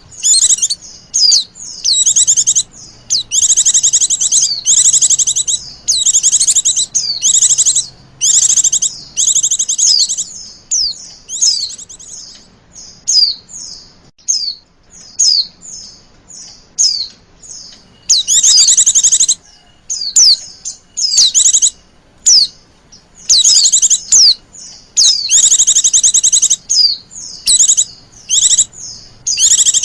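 Female white-eye (pleci) calling: repeated loud bursts of rapid, high-pitched trilling chatter, each about half a second to a second long, with short thin chips between them. It is the female's coaxing call, used as a lure to draw male white-eyes.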